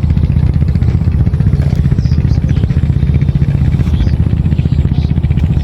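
An engine running steadily and loudly with a rapid, even low chugging.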